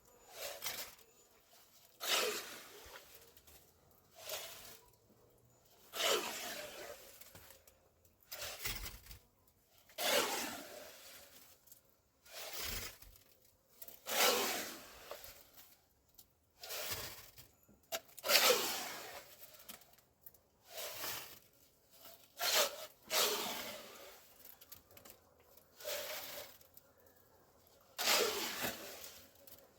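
Repeated scraping or tearing strokes, about one every two seconds, each sliding down in pitch and separated by short quiet gaps.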